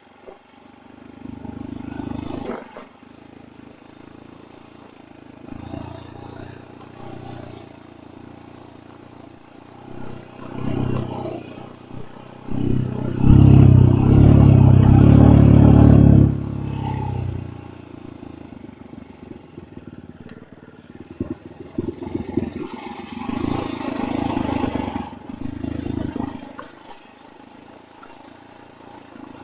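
Enduro dirt bike engine running at low revs with repeated throttle blips. Its loudest rev is held for about four seconds about halfway through.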